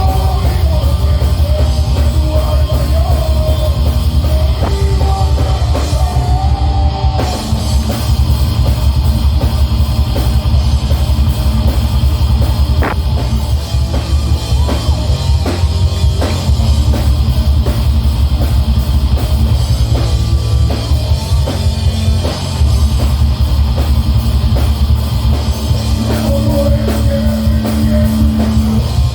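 Death metal band playing live: distorted guitars and bass over fast, relentless drumming, with no vocals heard. A held guitar note rings out near the end.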